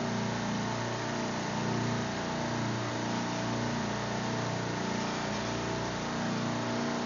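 Steady hum of a supermarket refrigeration rack's compressors running, several low tones held under an even machinery hiss.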